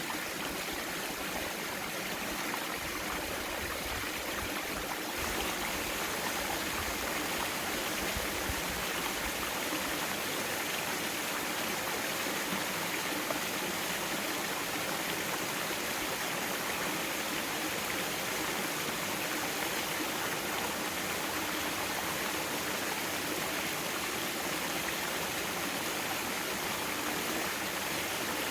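Mountain valley stream flowing, a steady rushing and burbling of running water.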